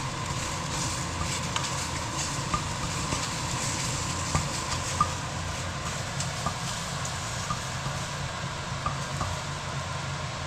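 Eggs frying in a pan: a steady sizzle with scattered small pops and crackles, over a low steady hum.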